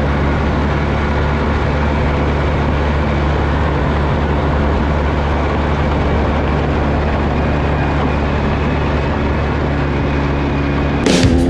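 A vehicle engine running at a steady speed with a constant low hum, no revving. Music cuts in just before the end.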